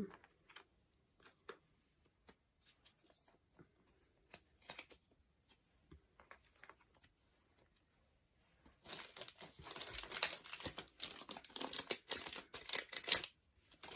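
Faint scattered ticks and taps of cards and plastic sleeves being handled. Then, about nine seconds in, several seconds of loud crinkling and rustling as packaging is crumpled up.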